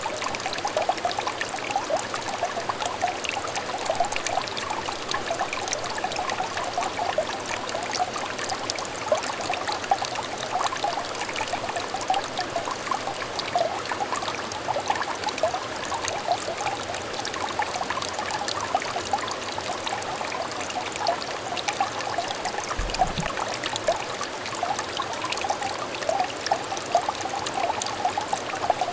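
Small clear stream trickling and babbling steadily, with many small bubbling splashes.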